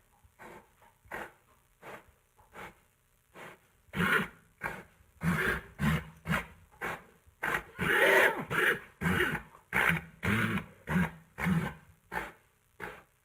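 A horse making a long run of short, throaty breaths, about two a second. They are faint at first, grow louder about four seconds in, and are loudest about eight seconds in.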